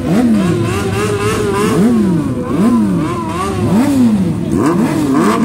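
Motorcycle engine revved with repeated throttle blips, each rising and falling in pitch. It is held at a steadier, wavering rev for the first couple of seconds, then blipped quickly, about one or two a second.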